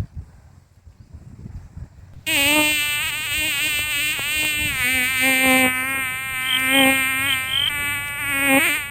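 A loud, even buzzing that starts abruptly about two seconds in, wavers a little in pitch, and cuts off suddenly just before the end.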